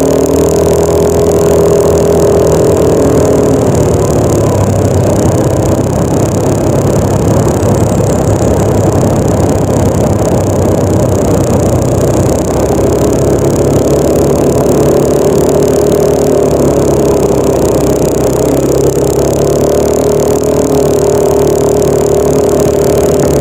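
Yamaha NMAX 155 scooter's single-cylinder four-stroke engine running while under way, its pitch drifting up and down with the throttle.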